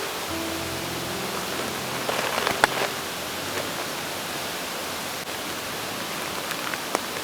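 Steady rushing of a mountain stream, with a few soft notes of background music in the first three seconds. A couple of sharp clicks, one about two and a half seconds in and one near the end.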